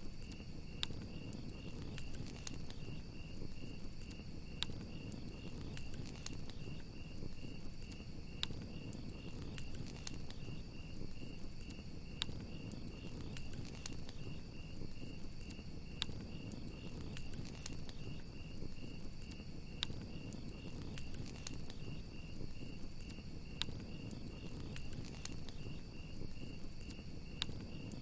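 Crickets chirping in a steady pulsing rhythm, with a continuous higher insect trill, over a crackling campfire that gives sharp pops every second or two and a low steady rush.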